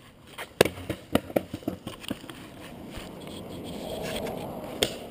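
Skateboard clattering: a quick run of sharp clacks and knocks, then wheels rolling in a rumble that swells, ending in one more sharp clack.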